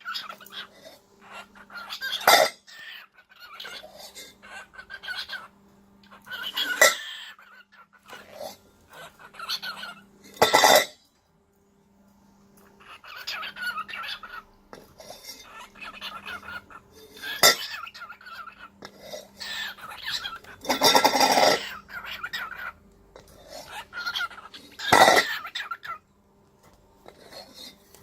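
Cockatiel knocking and rattling its food bowl, with sharp clatters every few seconds between stretches of soft chirping and chatter.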